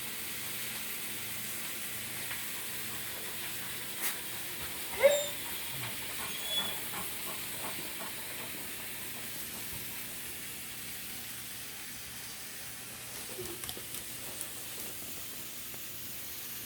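A dog's short whine that falls in pitch, about five seconds in, with a few fainter sounds after it, over a steady hiss.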